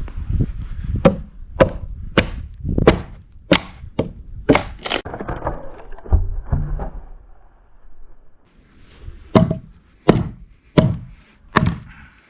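Repeated sharp blows striking wood as a log is split by hand: a run of about seven strikes roughly every two-thirds of a second, a pause, then four more.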